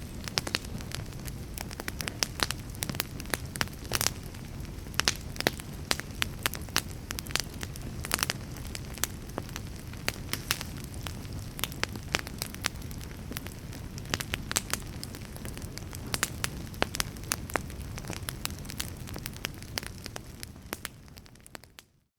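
Fire crackling: frequent sharp pops and snaps over a low steady rumble. The sound fades out briefly near the end, then comes back.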